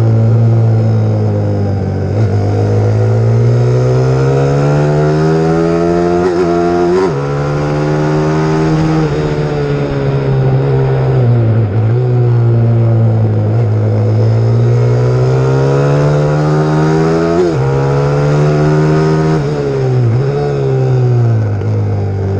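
Single-cylinder four-stroke pit bike engine, a YX150, being ridden hard around a track. The pitch climbs under acceleration and drops suddenly twice at upshifts, then falls off as the rider eases off, before climbing again.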